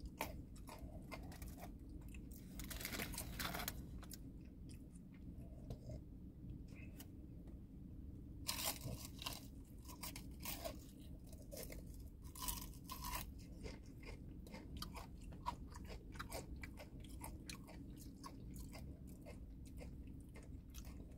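Close-up chewing and crunching of crispy fried chicken, the breading crackling between the teeth, with a few louder bites scattered through. A steady low hum runs underneath.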